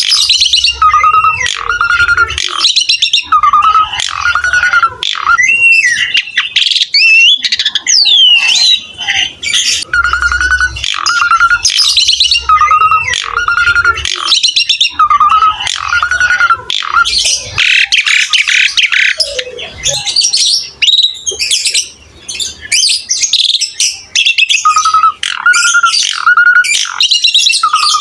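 Pied starling (jalak suren) singing loudly and without pause: harsh, scratchy chatter mixed with runs of short, repeated whistled notes and a few sliding whistles.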